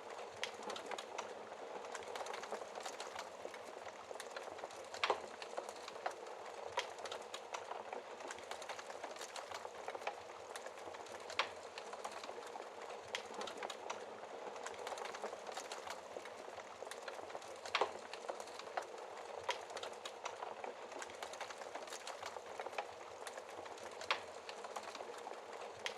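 Wood fire in a fireplace crackling steadily, with a constant soft hiss and scattered sharper pops and snaps every few seconds.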